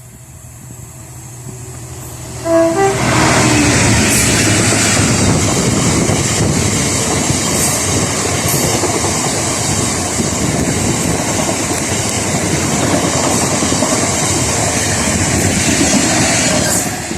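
A train passing close by. Its noise builds over the first couple of seconds, with a short horn note as it arrives about two and a half seconds in, then stays loud and steady with a few wheel clicks before dropping away near the end.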